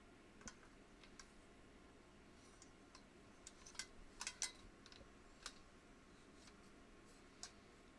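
Faint, scattered sharp clicks and light taps over a quiet background, a quick cluster of them about halfway through.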